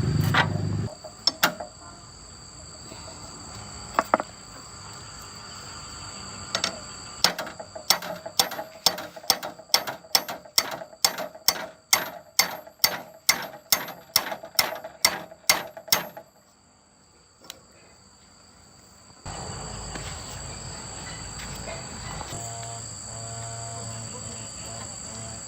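A run of sharp mechanical clicks, about two a second for some eight seconds, like a ratchet or a tool working on a machine. A low rumble cuts off about a second in, and a steady hum comes in near the end.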